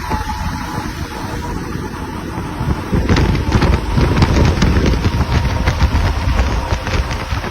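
Truck traffic passing a roadside CCTV microphone: a low rumble with wind noise that grows louder about three seconds in, joined by a run of sharp rattling clicks.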